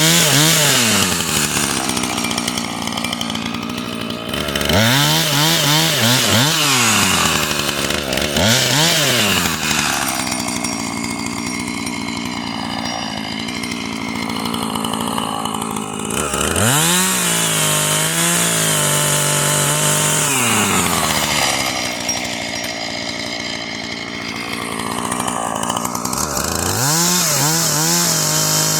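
Husqvarna two-stroke chainsaw cutting wood into firewood lengths. It revs up several times, holding at full speed through each cut and dropping back to idle between. The longest cut is about halfway through.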